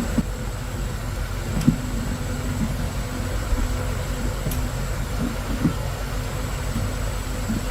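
An engine running steadily, a low rumble with a faint steady hum over it and a few faint clicks.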